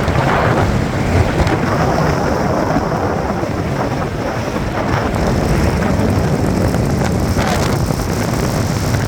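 Steady rushing noise of a car on the move, with wind buffeting the microphone.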